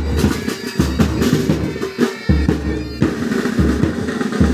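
Pipe band drum corps playing: rapid snare side-drum rolls and rudiments over bass drum beats about once a second.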